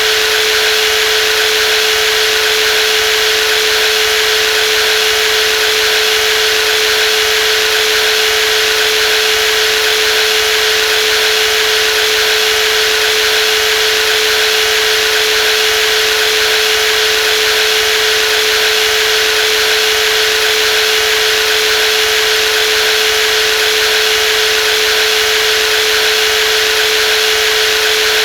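Brushless jigsaw running steadily at constant speed, a high motor whine over an even buzzing hiss, with no change in pitch or level.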